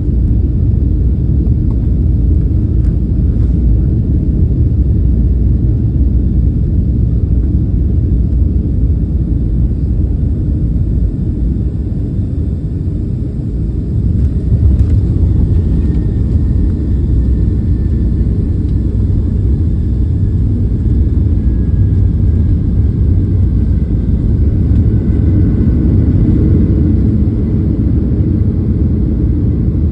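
Steady low rumble of a Boeing 757-200 landing, heard inside the passenger cabin. The rumble eases slightly and then grows louder again about halfway through.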